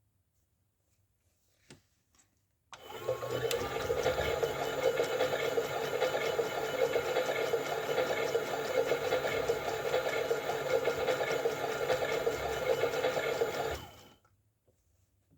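Toy washing machine's small electric motor running with water sloshing in the drum, starting about three seconds in after a faint click and stopping suddenly near the end.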